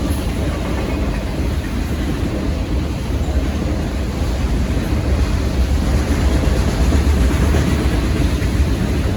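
BNSF autorack freight train rolling past at speed, a steady rumble of cars on the rails.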